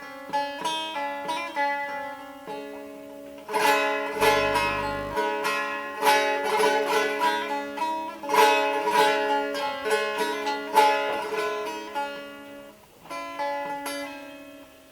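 Bağlama (Turkish long-necked saz) played solo in free improvisation: a plucked melody over a ringing open-string drone. The playing grows louder and busier about three and a half seconds in, and eases off near the end.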